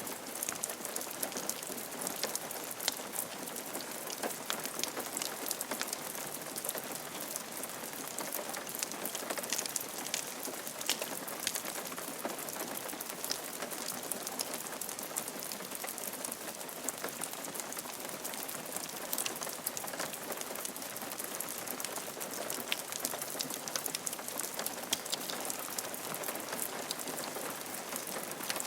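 Steady rain falling on a roof: an even hiss dotted with the sharp ticks of individual drops.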